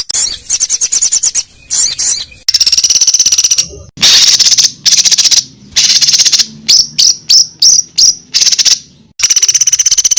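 Songbird training material: loud, fast buzzing trills in stretches of about a second, broken by short pauses, then a run of short sharp notes at about four a second before the trilling resumes near the end.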